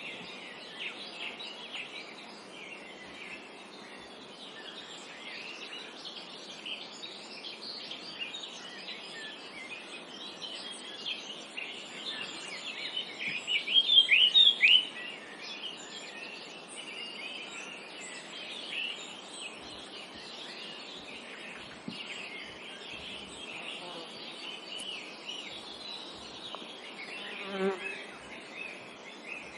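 Forest dawn chorus: many small birds chirping and singing at once, with one louder, rapid burst of song about halfway through.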